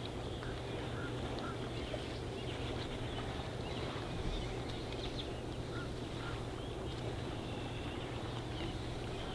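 Faint, scattered short bird calls over a steady low outdoor hush with a low hum.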